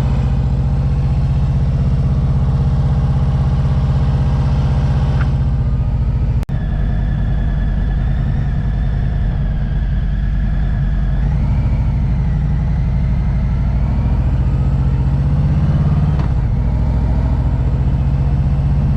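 Harley-Davidson motorcycle's V-twin engine running steadily while riding along the highway, heard from on the bike, with a momentary break about six and a half seconds in.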